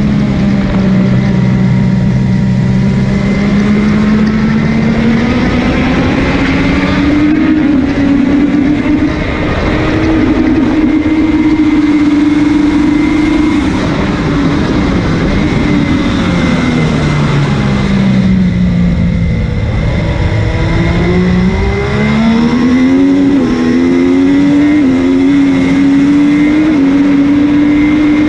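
MV Agusta F3's three-cylinder engine heard onboard at racing speed, its pitch rising and falling through the gears. It drops through downshifts in the middle, then climbs in steps through upshifts near the end, over wind rush.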